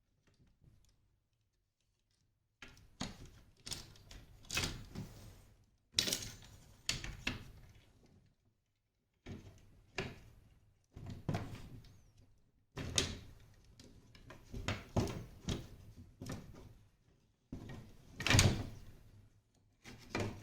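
Parasol parts being handled at the head of the frame: irregular knocks, clicks and clatters in clusters with short pauses, starting a couple of seconds in.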